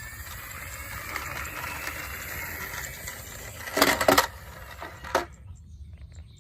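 Diecast toy vehicles clinking against each other: a quick burst of metallic clicks about four seconds in and one more click a second later, after a faint rising whine.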